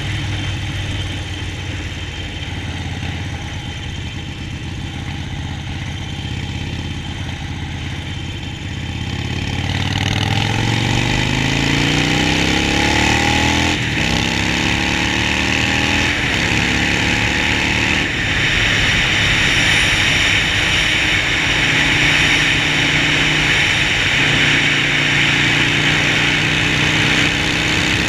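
Harley-Davidson Sportster Forty-Eight's air-cooled V-twin running low and steady, then accelerating about ten seconds in, its revs climbing and dropping back through several upshifts. It then settles into a steady cruise with wind rushing over the microphone.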